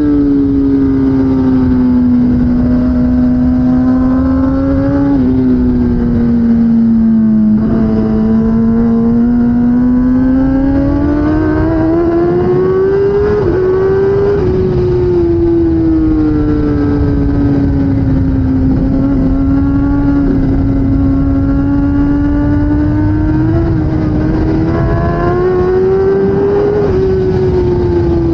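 2016 Kawasaki ZX-10R superbike's inline-four engine at racing speed. Its note climbs and falls as the bike accelerates and slows through corners, with a few brief breaks where gears change. A steady rush of wind and low rumble runs under it.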